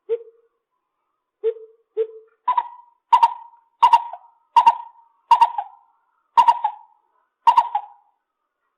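Lesser coucal calling: a few low hollow notes, then a slower series of about six higher, sharper notes spaced roughly a second apart.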